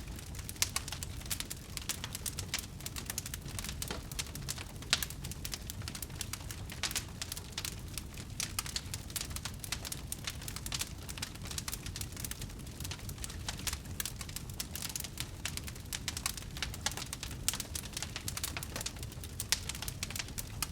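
Wood fire crackling: a dense, irregular stream of sharp pops and snaps, with a few louder ones, over a steady low rumble of burning.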